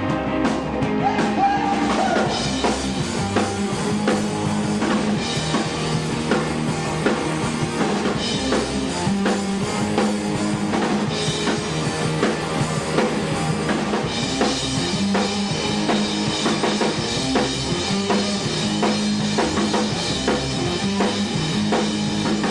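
Rock band playing live, a full drum kit driving a steady beat under guitars.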